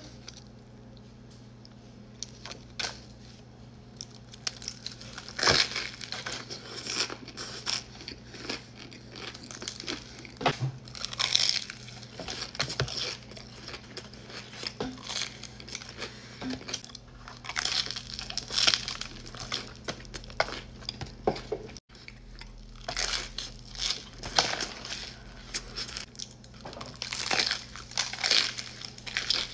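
Crunchy food being bitten and chewed close to the microphone: irregular crisp crunches and crackles over a faint steady hum.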